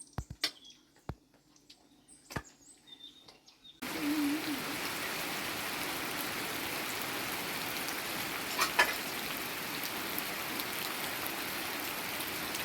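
A few sharp clicks and faint bird chirps, then about four seconds in a steady hiss of water noise cuts in abruptly and carries on evenly.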